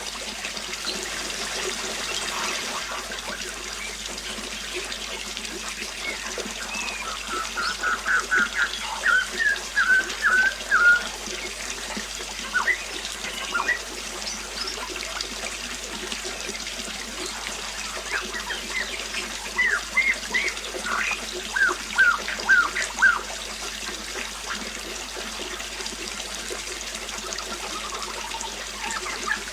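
Water trickling steadily, with a songbird singing two phrases of quick repeated notes, one about 7 seconds in and another about 19 seconds in.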